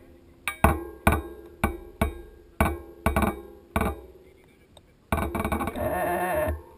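Mountain bike rattling over rough trail: a string of sharp knocks and clanks, about two a second, then a steadier buzzing noise for a second and a half near the end.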